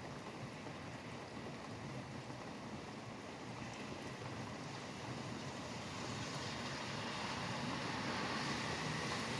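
Steady rain mixed with highway traffic on a wet road, a continuous rushing hiss that grows louder over the last few seconds.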